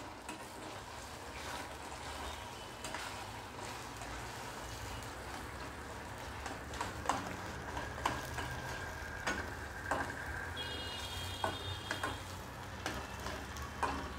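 Red-chilli paste and chopped garlic sizzling in hot oil in a stainless-steel kadai while being stirred. In the second half a metal spatula scrapes and knocks against the pan several times.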